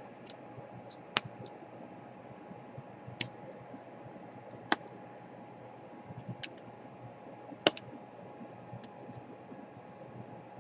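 Sparse sharp clicks and taps of small hand tools and parts being handled on a repair bench, about six over the span, the loudest near the end, over a faint steady hum.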